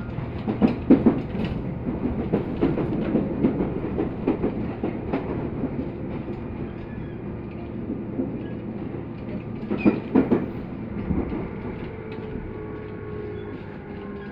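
Tobu 10030-series electric commuter train heard from inside the car, running slowly into its terminus: a steady rumble with the wheels clacking over rail joints, and a cluster of louder knocks about ten seconds in.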